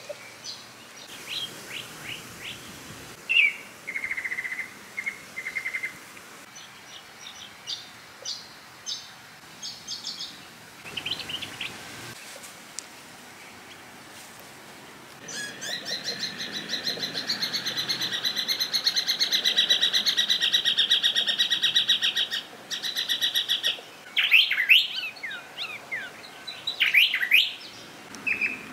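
Birds chirping and calling in a series of short whistled notes, with a loud, fast, rattling trill about halfway through that lasts some seven seconds.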